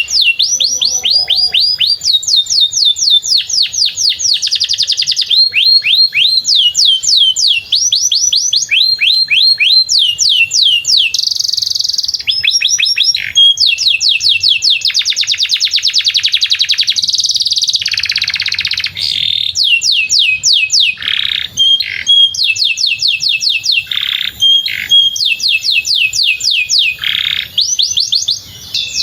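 Domestic canary singing a long, unbroken song: phrases of rapidly repeated down-slurred notes alternate with very fast rolling trills, all high-pitched.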